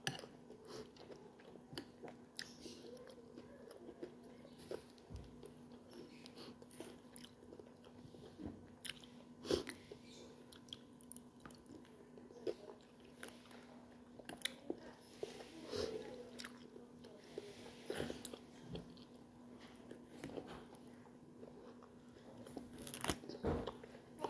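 A person chewing and biting soft food from a vegetable soup, with scattered short sharp clicks of a metal spoon against a plate, over a faint steady hum.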